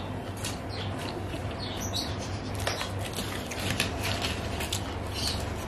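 Close-up chewing with the mouth closed: many small wet clicks and smacks while eating fried lentil fritters (daler bora), with fingertips picking crumbs off a plate. A low steady hum runs underneath.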